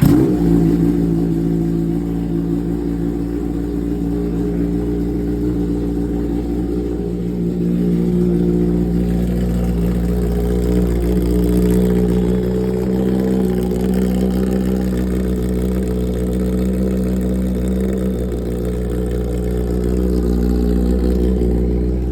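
Kawasaki Ninja ZX-10R's inline-four engine through an SC-Project exhaust, running at a steady cold-start idle just after firing up, its pitch shifting slightly a few times.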